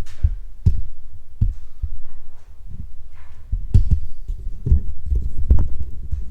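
Footsteps of someone walking, dull low thuds about one a second, over a steady low rumble.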